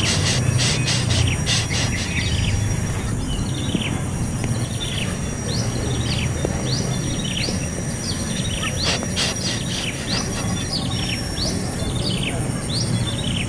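A small bird chirping over and over in short, high, falling notes, a few a second, over a steady high insect whine and a low rumble of background noise.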